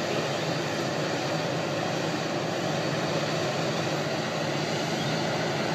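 Steady vehicle noise: a continuous rumble and hiss with a low hum, with no sudden changes.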